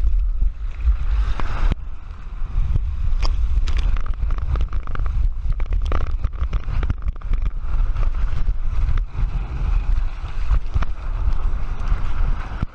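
Heavy wind rumble on the camera microphone, with rushing and splashing water, as on a ride down a water slide.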